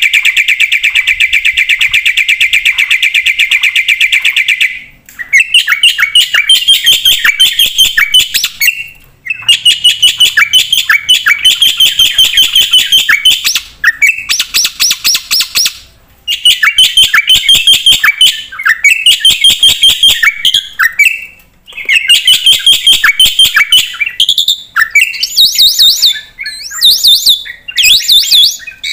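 Black-winged starling (jalak putih) singing loudly in its full, mimicry-filled song: a fast steady trill at first, then phrases of rapid repeated chirping notes with short pauses between them.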